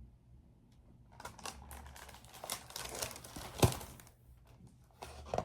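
Paper rustling and crinkling as a picture-book page is handled and turned, with a sharper crackle a little past halfway and a brief rustle again near the end.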